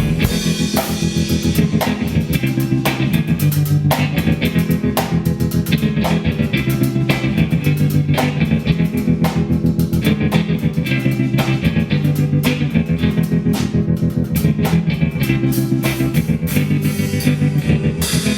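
Rock music from a band with guitar, bass guitar and drums: the bass moves between held notes under a steady drum beat, and the drums drop away near the end.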